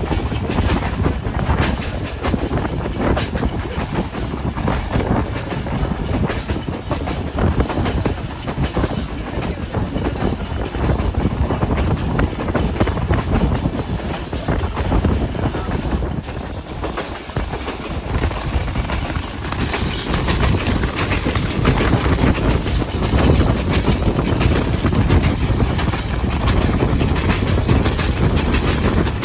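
Moving passenger train: a steady rumble with the wheels clicking and clattering over the rail joints. It eases briefly about halfway through, then comes back a little louder.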